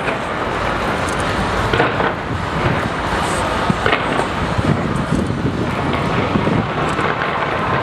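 A fireworks display at full pitch: a continuous rumble of many bursts and crackles, one after another, under a murmur of crowd voices.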